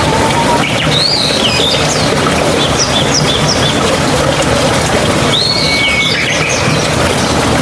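Steady rushing of flowing water, like a mountain stream. Over it a bird calls in two bursts of short, swooping phrases, about a second in and again about five and a half seconds in.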